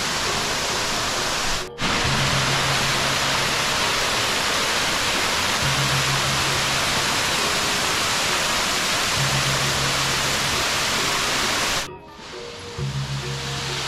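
Steady rushing noise of a waterfall, mixed with background music of low held notes that come and go. The sound drops out abruptly for a moment about two seconds in and again near the end.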